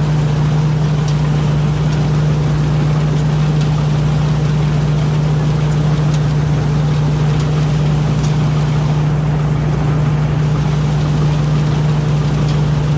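Rice combine harvester's engine running steadily at constant speed, a loud, even drone with a strong low hum.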